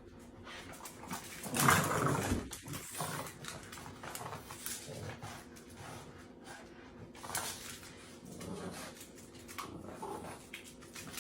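Dogs making noise, loudest in a burst about two seconds in, then softer sounds on and off.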